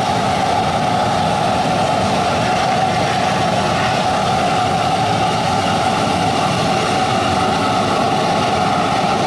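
The twin turbofan engines of a Bombardier CRJ-200 regional jet running steadily, a constant jet noise with a steady mid-pitched whine.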